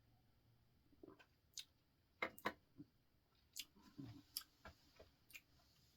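Near silence broken by a few faint, scattered clicks and small mouth sounds; the loudest is a pair a little over two seconds in.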